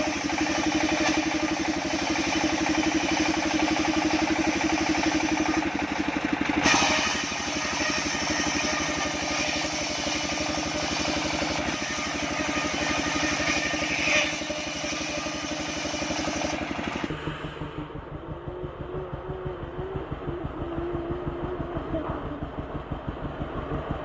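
Engine of a home-built circular sawmill running steadily, with brief louder moments about a third of the way in and near the middle. About two-thirds of the way in it drops abruptly to a quieter, duller engine sound.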